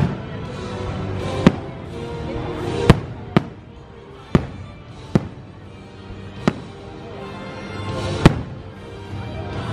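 Aerial firework shells bursting: about eight sharp bangs at uneven spacing, the loudest near three seconds in and near the end. Music plays underneath.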